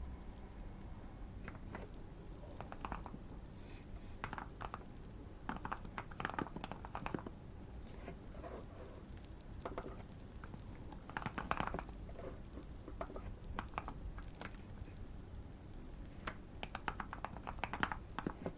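Typing on a Keychron Q1 custom mechanical keyboard: quick runs of key clicks broken by short pauses. Underneath is a faint steady low background.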